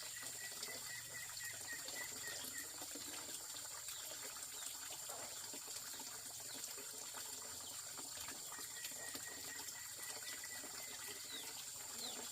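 Water running and splashing steadily, with a thin steady high whine behind it.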